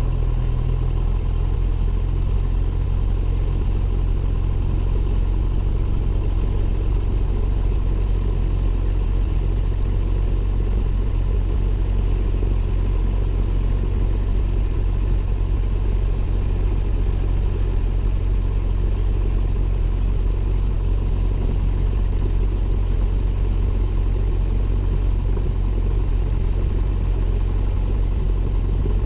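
Cessna 172N's four-cylinder Lycoming piston engine and propeller running at a steady, unchanging speed, heard from inside the cockpit.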